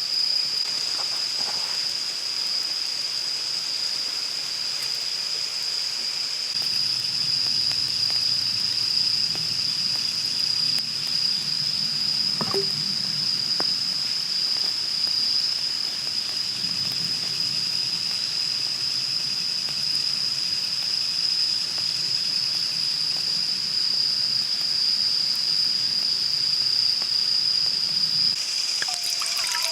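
A steady high-pitched insect drone that holds one pitch without a break, over a soft noisy background, with a few brief chirps near the end.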